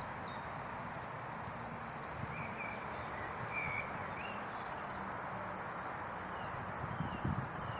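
Insects trilling steadily at a high pitch over an even hiss, with a few short chirps scattered through.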